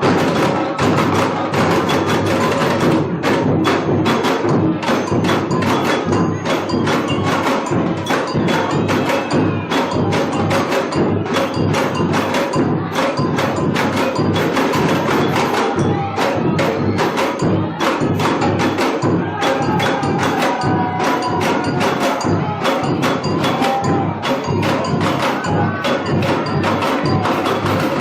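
University samba bateria playing live: a dense, driving groove of drums and percussion with a steady beat.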